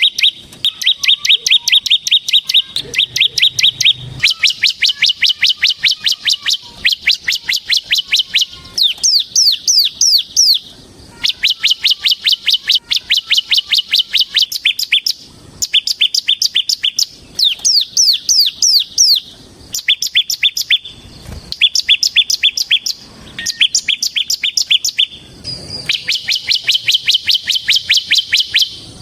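Ciblek (bar-winged prinia) singing its rapid 'ngebren' song: runs of fast, sharp, repeated chirps, about ten a second, each run lasting one to three seconds with short pauses between.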